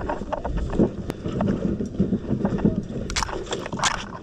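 Wheelbarrow being pushed over rough ground, its frame rattling and knocking unevenly, with footsteps and a few short scrapes near the end.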